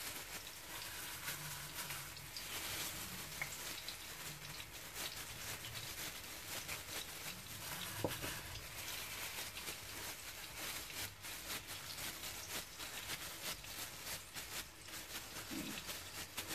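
Stuffed tofu frying in oil in a pan, a steady sizzle with fine crackles, with plastic food-prep gloves crinkling as meat filling is pressed into the tofu. A single light tap about eight seconds in.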